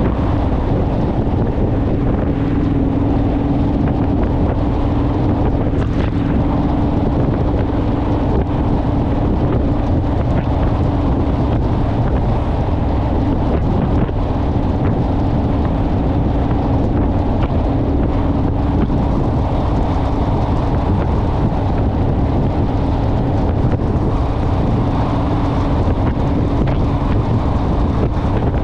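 Honda Rebel parallel-twin motorcycle engine running at a steady cruising speed, under heavy wind noise on the microphone.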